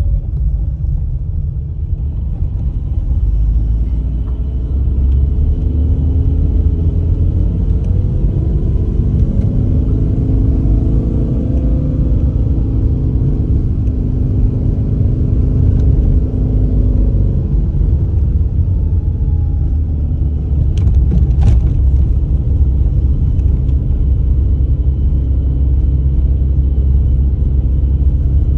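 Car engine and road rumble heard from inside the cabin while driving under throttle. The engine note climbs and then eases off, and there are two sharp clicks about two-thirds of the way in.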